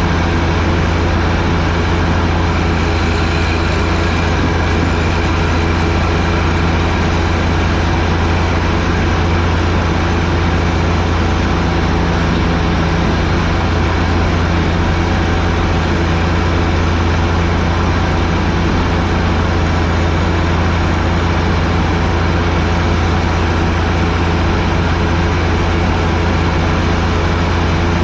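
John Deere 1025R sub-compact tractor's three-cylinder diesel engine running at a steady, constant speed, a loud unchanging low drone.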